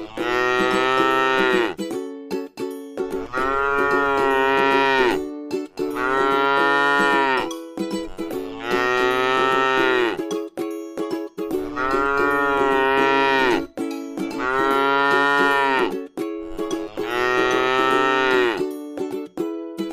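A cow mooing over and over, about one long call every two seconds, with a steady tone continuing underneath.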